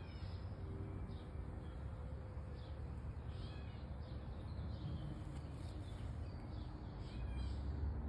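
Wild birds chirping in short, repeated calls over a steady low rumble, with the faint buzz of honey bees from the swarm coming and going.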